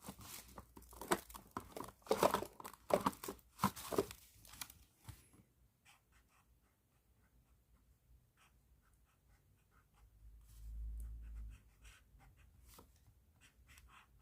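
A plastic bag crinkling and rustling in quick bursts for about the first five seconds as it is handled, then only faint light taps and scratches. A short low rumble comes about ten seconds in.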